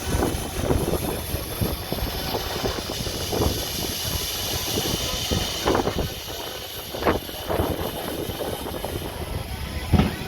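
Mechanical running noise with irregular knocks and clicks throughout, and music playing at the same time.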